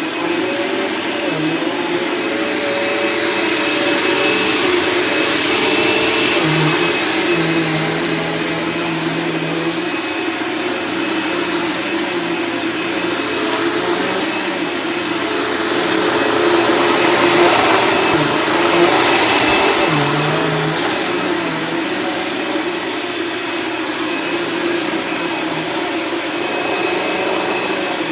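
Dirt Devil Ultra Vision Turbo vacuum cleaner running steadily while vacuuming shredded paper off carpet, its motor hum swelling and easing in loudness.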